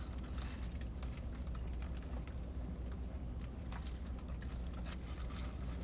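Eating sounds inside a car: scattered small clicks and crackles of chewing and handling food, over a steady low hum.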